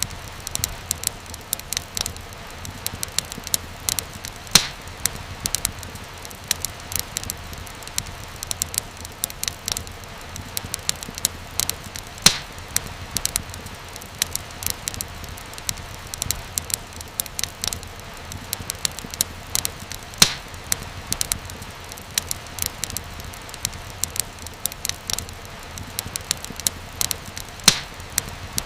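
Wood fire crackling: a dense run of small snaps and pops over a low steady rumble, with four louder pops spaced about eight seconds apart.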